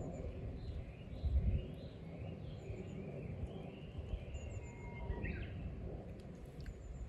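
Wild birds singing and calling over a steady low rumble, with one louder sweeping call a little past five seconds in.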